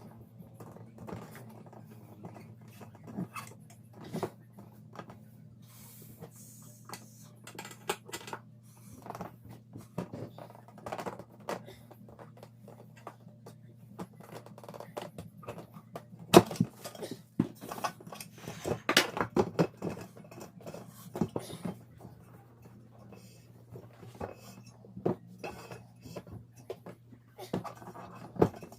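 Metal tools and wheel parts clinking, knocking and scraping during a DIY tyre change, with a cluster of louder knocks past the middle. A faint steady hum runs underneath.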